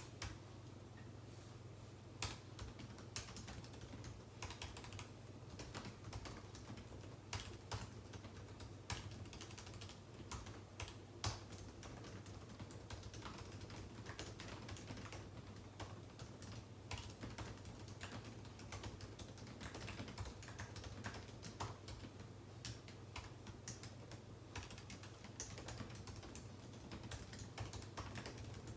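Typing on a computer keyboard: a steady, irregular stream of key clicks, with a few louder keystrokes standing out.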